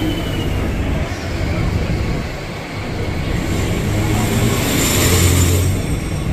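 Mumbai suburban electric local train running, heard from its open doorway: a steady low hum under loud rumbling wheel and rail noise, with a hiss that swells in the middle and eases off. A second local train runs close alongside on the next track.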